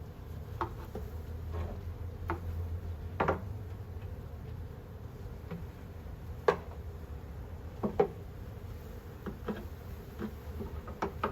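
Honeybee swarm buzzing steadily, with scattered sharp clicks and knocks over it, the loudest about six and a half and eight seconds in.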